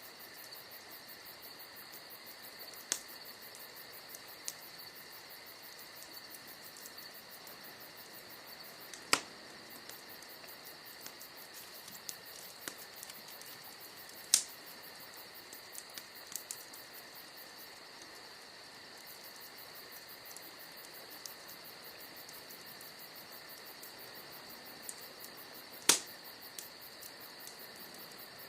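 Wood fire crackling with a few sharp pops, the loudest near the end, over a steady high chirring of crickets.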